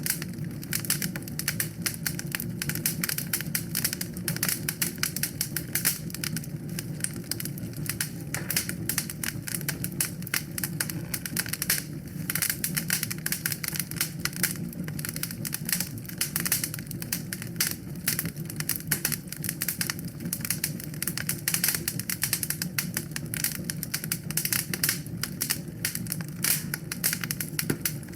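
Wood fire burning in a fireplace, with dense, irregular crackles and pops over a steady low rumble of flame.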